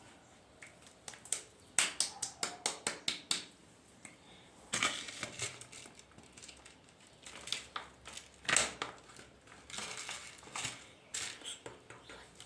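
Sticky taba squishy toys being squeezed and handled: a quick run of sharp crackles a couple of seconds in, then scattered crackling and rustling.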